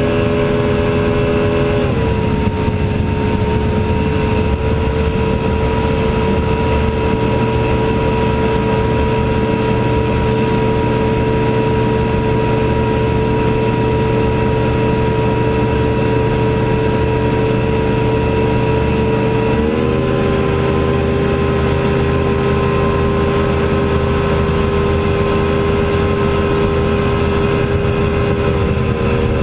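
Johnson 150 HP outboard motor running under way at a steady speed. Its pitch dips slightly about two seconds in and comes back up a little near the twenty-second mark.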